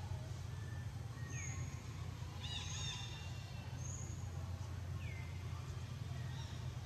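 Birds calling outdoors: short high whistles repeat every second or so, with a few downward-sliding calls and a quick burst of chirps near the middle. A steady low rumble runs underneath.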